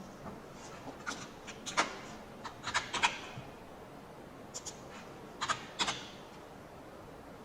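Clicks of a computer mouse and keyboard keys, about a dozen short sharp clicks in small bunches, the loudest around two and three seconds in, over a faint steady hiss.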